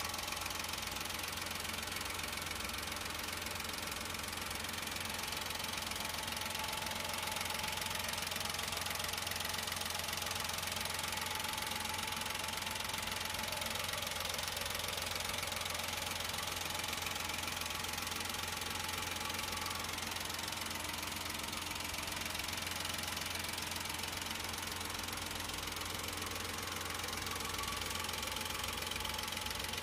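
Toyota Raize's 1.0-litre (996 cc) turbocharged inline three-cylinder engine idling steadily, heard up close with the bonnet open.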